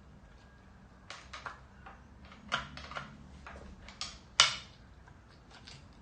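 Several irregular clacks and knocks of hand tools and engine parts being handled, the loudest a sharp knock about four and a half seconds in that rings briefly.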